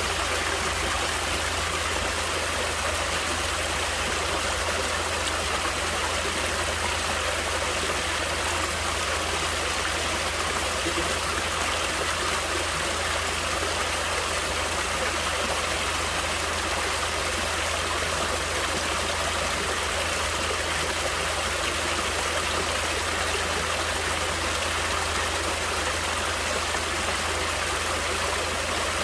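Natural running water flowing steadily, an even rushing noise with no breaks or changes.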